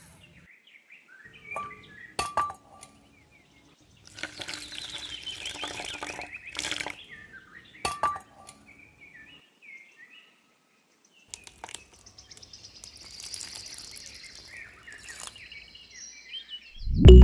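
Birds chirping in short repeated notes, with a few sharp clinks and knocks among them.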